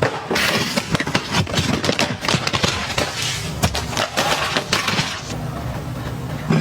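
Packaged items being handled: rustling with frequent clicks and taps. The rustling thins out about five seconds in, leaving sparser clicks.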